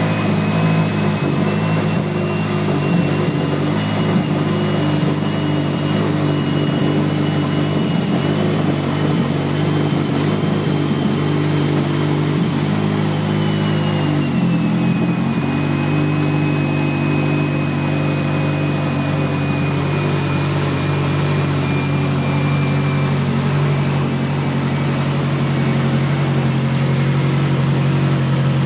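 Freshly rebuilt 2012 Mazdaspeed 3's turbocharged 2.3-litre four-cylinder engine running at a steady idle, with a short dip in engine speed about halfway through. A thin high whine rides over it.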